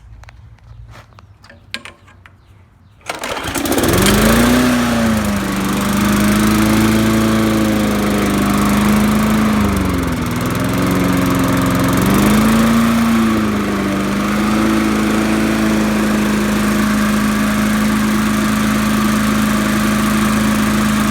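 Murray push mower's 4 HP Briggs & Stratton Classic single-cylinder engine pull-started, catching suddenly about three seconds in. Its speed rises and dips a few times, then holds steady running.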